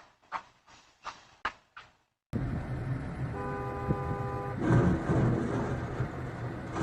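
A vehicle horn sounds one steady two-note blast for just over a second, over steady road and engine noise, after a few scattered knocks and a brief dead-silent gap.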